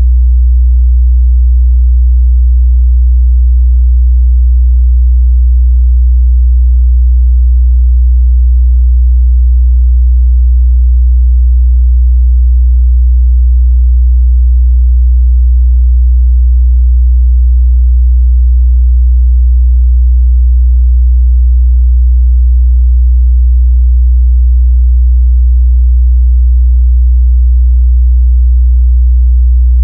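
A continuous, steady 61 Hz sine-wave test tone: a pure, low hum at constant loudness, used to check how speakers or headphones reproduce mid-bass.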